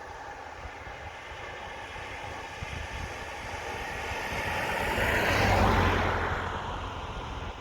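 Large diesel farm machine driving close past, its engine and running noise growing louder to a peak about five and a half seconds in and then fading as it moves away.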